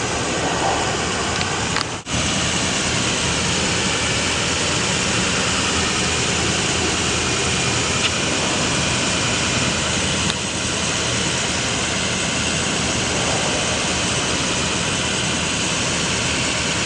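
Altec bucket truck's engine running steadily, with a brief dropout about two seconds in.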